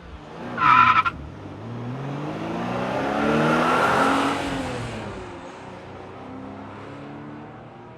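A car driving past: its engine note climbs and grows louder to a peak about four seconds in, then drops and fades. Near the start there is a short, loud, high-pitched tone.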